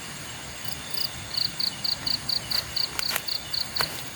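Night insects: a cricket chirping in a quick, even run of about five chirps a second, starting about a second in, over a steady high trill of other insects. A few sharp clicks come near the end.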